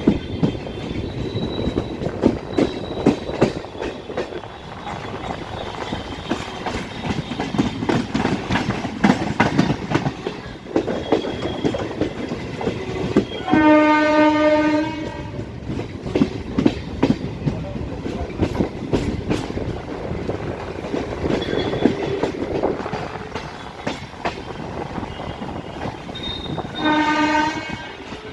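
Old electric multiple unit (EMU) local train running, heard on board: steady rumble with wheels clattering over rail joints. The train's horn sounds twice, a blast of about a second and a half midway and a shorter one near the end.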